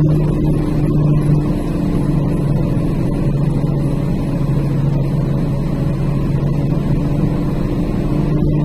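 Heavy truck's diesel engine droning steadily with the engine brake on, holding the truck back on a steep downhill grade.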